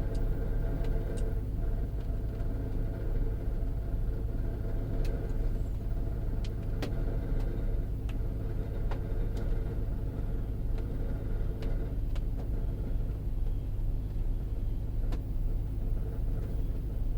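Gen2 Dodge Durango's Hemi V8 running with a steady low grinding rumble and a few sharp clicks. The owner cannot yet place the grind and wonders whether it is a failing water pump, starter, torque converter or catalytic converter.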